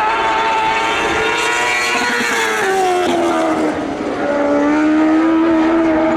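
Lightning sprint car engine running at high revs on a dirt oval. Its pitch falls about three seconds in and then holds lower.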